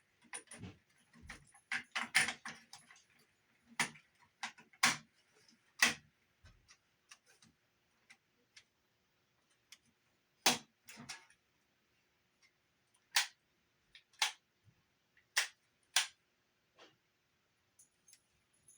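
Sony TC-50 cassette recorder's transport keys clicking as they are pressed and released again and again, in scattered single and double clicks with pauses between them. The tape is not spinning: the recorder does not appear to work.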